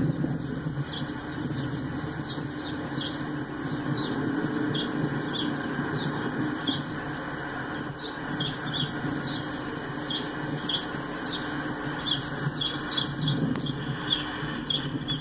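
CSX freight train's diesel locomotive rumbling steadily as it rolls slowly closer. A short high squeal repeats about twice a second over the rumble.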